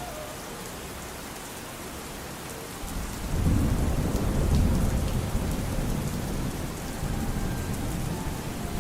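Steady rain, with a low rumble of thunder that swells about three seconds in and rolls on.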